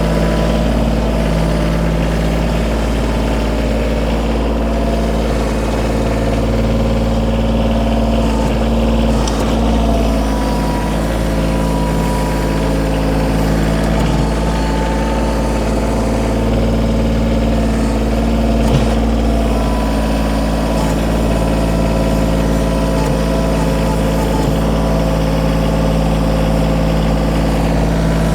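Kioti compact tractor's diesel engine running at a steady, even speed.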